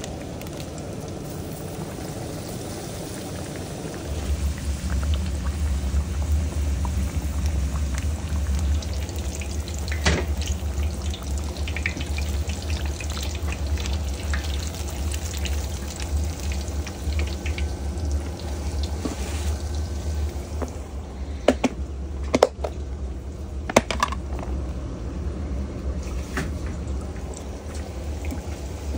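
Breaded pork cutlets deep-frying in hot oil in a skillet: a steady sizzle and bubbling. A low steady hum comes in about four seconds in, and a few sharp clicks and knocks sound near the end.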